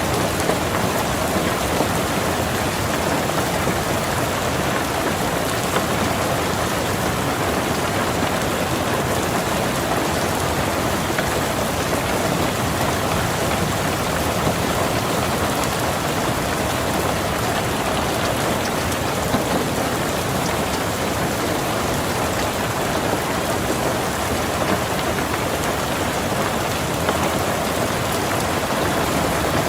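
Steady rain falling on a car's roof and windows, an even wash with scattered individual drop ticks.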